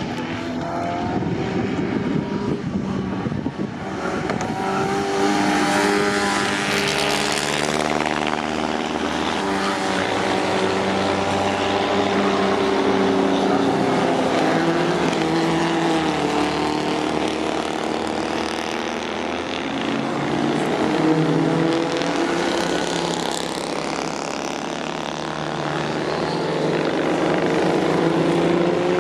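Engines of several vintage racing cars running together, their pitches rising and falling as they rev, with the note swelling and fading as the cars pass.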